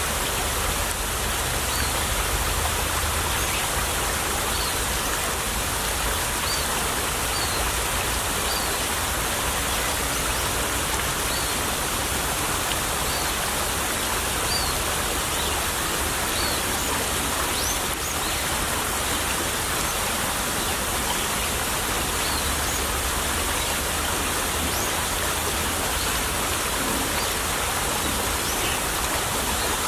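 Stream water running steadily over stones in a shallow babbling flow, with faint short high chirps now and then.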